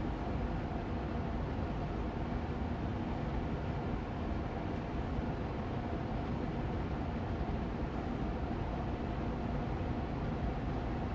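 Austin Air allergy machine air purifier fan running steadily on medium speed: an even whooshing rush of air with a faint hum beneath it.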